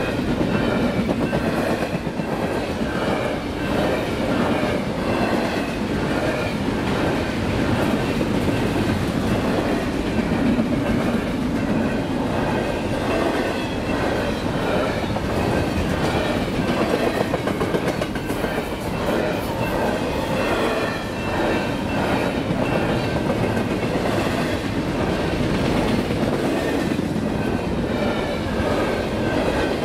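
Freight train of double-stack container well cars rolling past: a steady rumble of steel wheels on rail with a continuous clatter over the rail joints.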